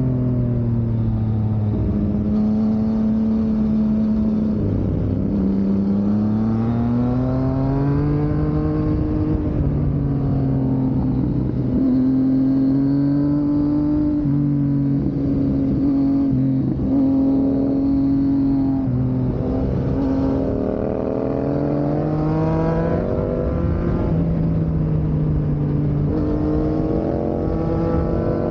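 Yamaha MT-09 and MT-07 motorcycle engines riding uphill. The engine pitch climbs and drops over and over as the throttle opens and closes and the gears change.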